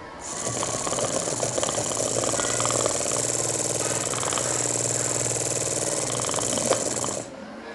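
Small battery-powered DC motor of a cardboard model washing machine running steadily, switched on just after the start and cut off abruptly about seven seconds later.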